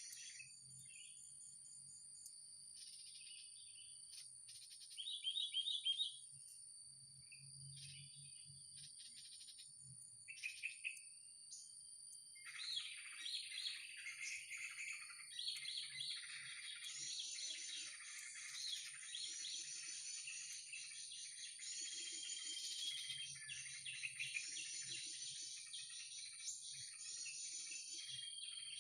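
Small birds chirping and calling, with scattered calls at first and a dense run of repeated call phrases from about halfway on, over a steady high-pitched insect drone.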